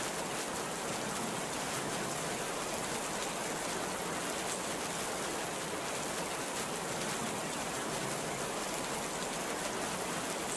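Very heavy rain pouring steadily, an even hiss with no thunder.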